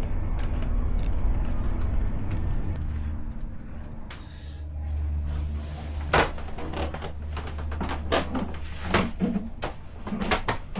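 Low steady rumble, then a string of sharp knocks and clunks from about six seconds in.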